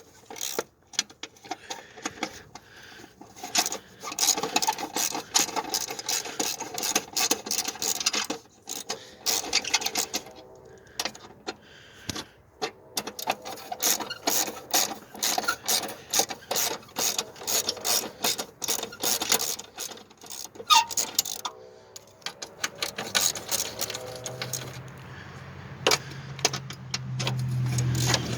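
Ratchet wrench clicking rapidly in long runs, with short pauses, as 12 mm bolts are spun out. A low hum swells near the end.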